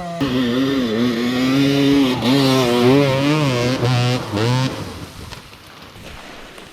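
Dirt bike engine running under wavering throttle, its pitch rising and dipping slightly, then fading away about five seconds in as the bike moves off.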